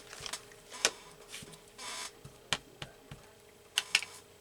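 Paper cut-outs being handled on a craft table: a few sharp clicks and taps, with a short rustle of paper about two seconds in and a quick pair of clicks near the end.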